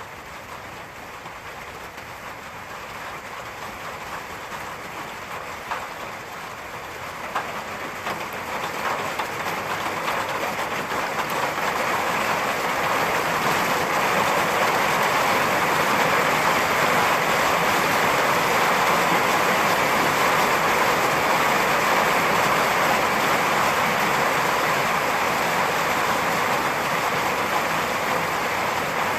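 Rain building from a light patter to a heavy, steady downpour over the first dozen seconds, with a few sharp drop splats along the way.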